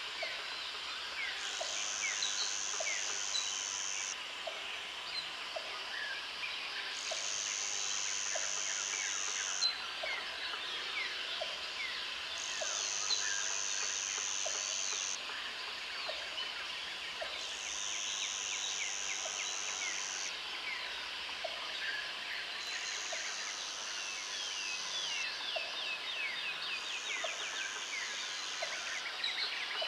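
Jungle ambience: a high, buzzing insect call sounds in stretches of about two and a half seconds, roughly every five seconds, over a dense chorus of chirping and trilling birds and a short low note repeating about once a second.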